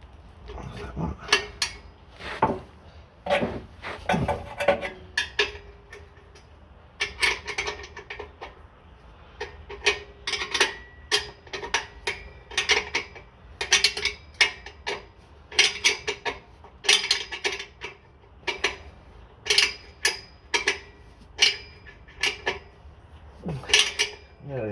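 Metal clinking and clicking of a spanner working the clamp nuts on a car's rear exhaust box joint, roughly one or two strokes a second, with short pauses, the nuts being done up tight.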